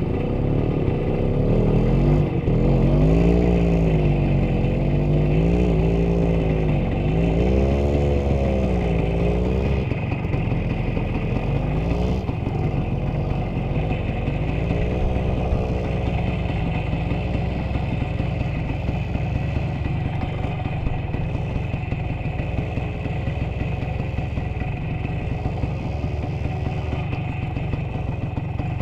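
Vehicle engine driving off-road, its revs rising and falling over and over about every two seconds, then holding steadier for the second half.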